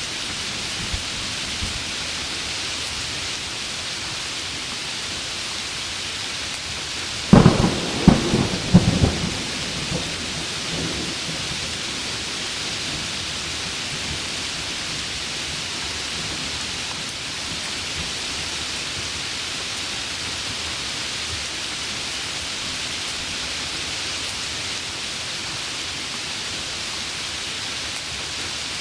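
Heavy rain falling steadily in a thunderstorm. About a quarter of the way in comes a close thunderclap: a quick string of sharp cracks over a second or two, trailing into a short rumble.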